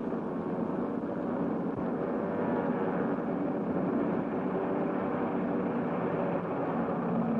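A propeller transport plane's engine running, a steady, unbroken drone.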